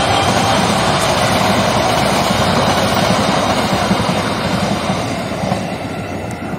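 Passenger coaches of a train hauled by a CC 203 diesel-electric locomotive rolling past on the rails, a steady rumble that fades over the last couple of seconds as the end of the train goes by.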